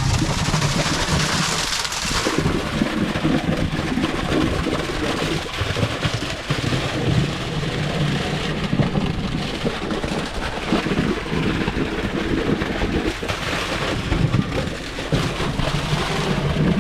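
Concrete boom pump truck running during a concrete pour, a steady low rumble with a rushing hiss over it; the higher part of the hiss falls away about two seconds in.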